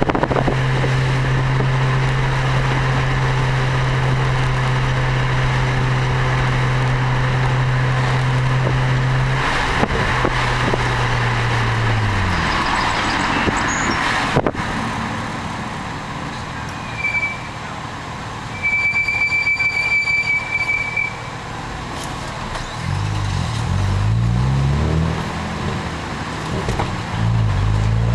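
BMW 335i's turbocharged straight-six through an Eisenmann Race exhaust, heard from outside the passenger window: a steady low exhaust drone at cruise for about ten seconds. The pitch then falls and the engine quiets as the car slows. A short high steady tone sounds in the quiet stretch, and near the end the engine note rises and falls again as the car pulls away through the gears.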